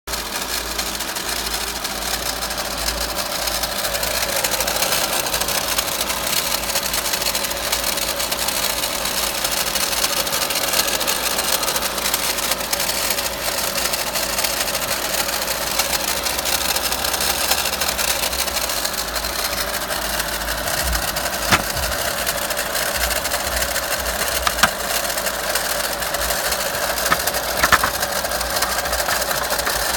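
VW Golf Mk5 1.4 TSI twincharged engine running with a steady, fast rattle, which the owner traces to the water pump and its magnetic clutch. A few sharper clicks stand out in the last third.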